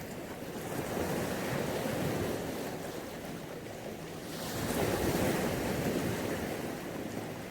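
Mediterranean sea waves washing onto the beach, a steady surf hiss that swells twice. The second wash, about four seconds in, is the louder and brighter one.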